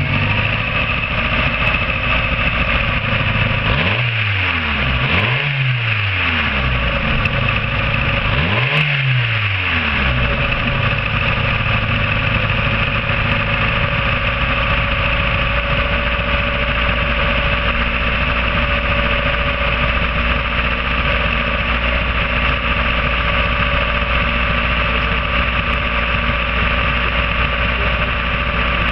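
Mazda 121's 1.3-litre 16-valve four-cylinder engine running: revved briefly three times in the first ten seconds, each rev falling back to idle, then idling steadily. It is a used engine being shown running to prove it works.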